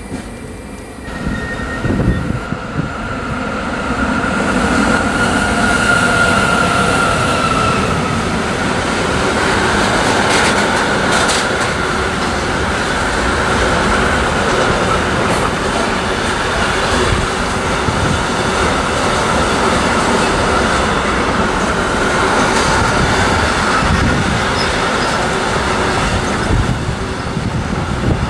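Intermodal freight train hauled by a class 189 (Siemens Eurosprinter) electric locomotive passing close by, its wheels rolling on the rails with a continuous loud noise. A high steady wheel-squeal tone sounds over the first several seconds.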